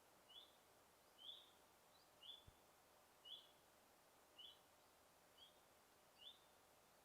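A single bird repeats a short, high chirp about once a second. The chirps are faint over a soft background hiss.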